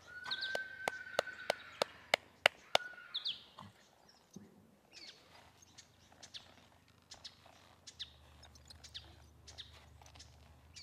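Birds calling in bushland: a held whistle with short high chirps, then scattered faint chirps. Over the first three seconds there is also a quick run of sharp clicks, about three a second.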